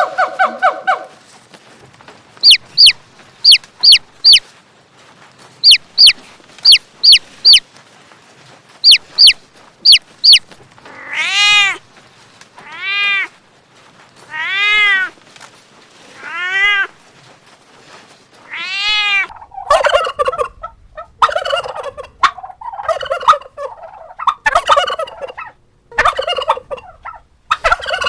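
A run of farm-animal calls. First come quick groups of three or four very short, sharp, high chirps. Then come five drawn-out calls, each rising and then falling in pitch, and near the end a stretch of rough, stuttering, rattling bird calls like gobbling.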